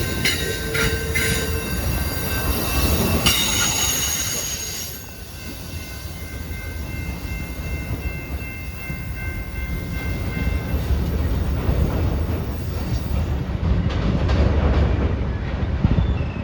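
Amtrak Empire Builder passenger train rolling past, a steady low rumble of wheels on rail. Over it is a high-pitched wheel squeal that drops away about five seconds in and dies out about eleven seconds in.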